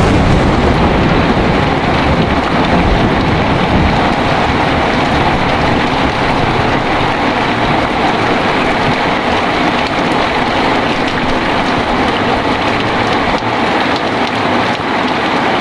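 Heavy rain falling steadily during a thunderstorm, with a low rumble of thunder underneath that dies away near the end.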